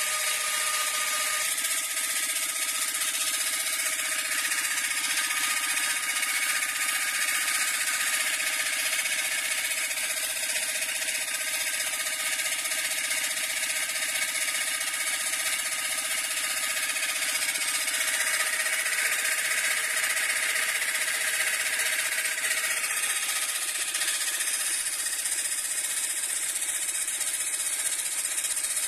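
Homemade car tyre compressor, a refrigerator compressor driven by a car heater fan motor, running steadily while inflating a flat tyre, with an even hum and whine.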